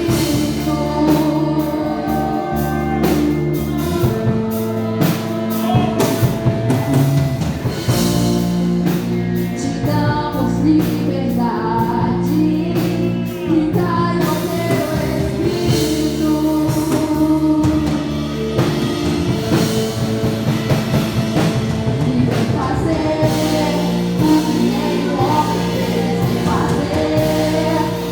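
Live gospel worship music: singing over a band with a steady drum-kit beat and sustained keyboard chords.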